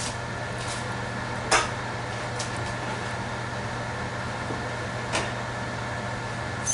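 A few sharp knocks of a cooking utensil against the pot, the loudest about a second and a half in and a lighter one near the end. A steady hiss and low hum run underneath.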